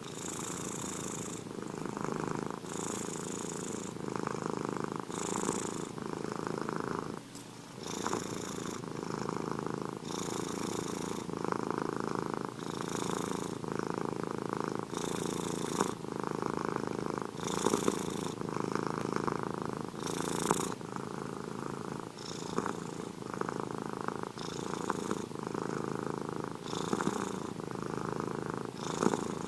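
A domestic cat purring close up, steady and continuous. It swells and eases in a regular rhythm about every two and a half seconds as the cat breathes in and out, with a brief break about seven seconds in.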